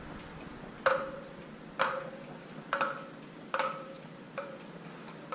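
Bicycle wheel spokes pinged one at a time, about six times at roughly one a second, each giving a short metallic ring. This is a check of spoke tension by ear, and the spokes are judged to be fine.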